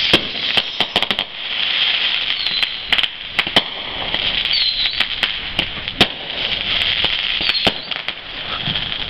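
Fireworks display going off: irregular sharp bangs and pops, about one or two a second, over a continuous high crackling hiss.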